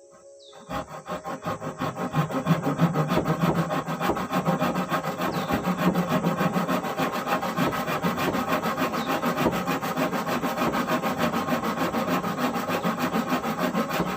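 Wood being sawn, with rapid, even strokes that start under a second in and keep a steady pace.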